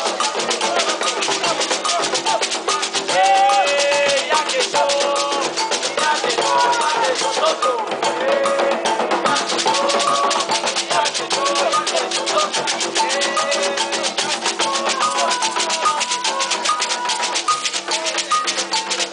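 Afro-Brazilian ritual percussion: drums and rattles playing a fast, steady rhythm, with voices singing a chant to Xangô over it.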